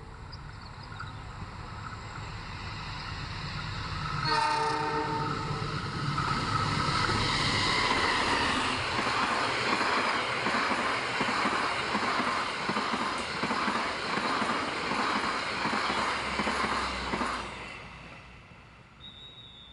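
Passenger train approaching and passing close by. It sounds one short horn blast about four seconds in, then the coaches go past for about ten seconds with a loud rumble and the rhythmic clatter of wheels over rail joints, which fades away near the end.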